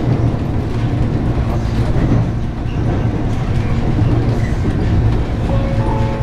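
Shizuoka Railway 1000 series electric train running along the line, heard from inside the front of the car: a steady rumble of wheels on rails and running gear. A faint whine comes in near the end.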